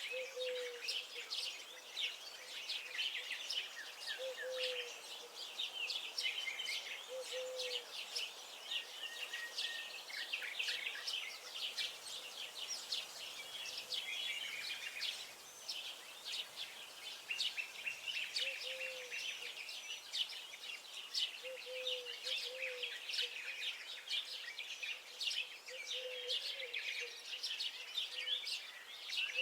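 Many songbirds chirping and singing at once in dense, overlapping chatter, with a short low call repeating every few seconds underneath.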